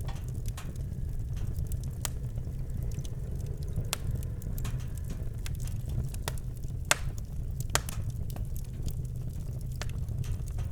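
Campfire crackling: burning wood gives irregular sharp snaps and pops, a few louder than the rest, over a steady low rumble.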